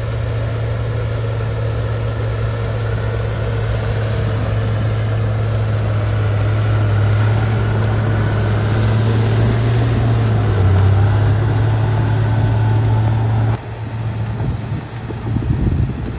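Bulldozer's diesel engine running with a steady hum that rises slightly in pitch midway through. Near the end the sound changes abruptly to a quieter, uneven engine noise.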